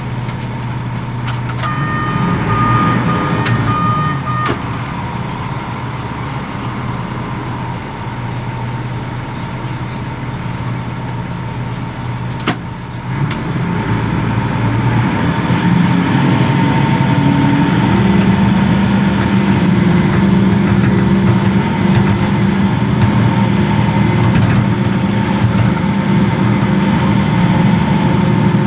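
Reach stacker's diesel engine running, becoming louder and working harder about halfway through as the machine moves containers. A steady high warning tone sounds for about three seconds near the start, and a single sharp click comes near the middle.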